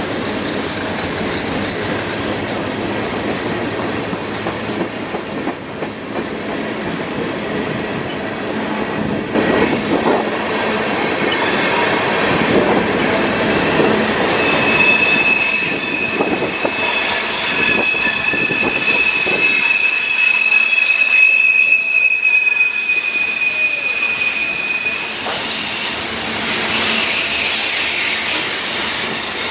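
Freight cars of a CSX mixed manifest train rolling past with a steady clatter and rumble of wheels on rail. From about a third of the way in, a single high wheel squeal holds steady for about ten seconds, then stops.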